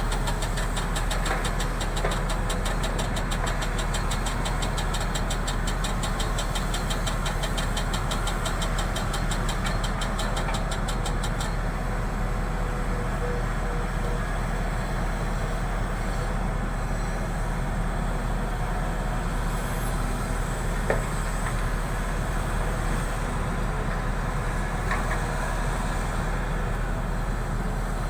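An engine running steadily, with a fast high ticking over it that stops about eleven seconds in.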